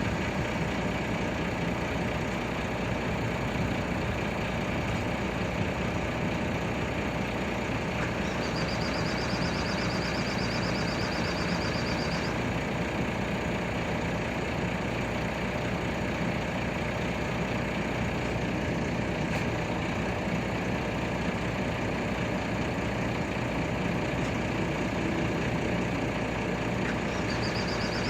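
Heavy diesel engine of an excavator running steadily. A high, rapidly pulsing alarm chirps for a few seconds at the start, again for about four seconds, and once more near the end.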